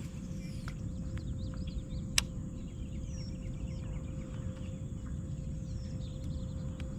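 Birds chirping in the background over a steady low rumble, with one sharp click a little over two seconds in.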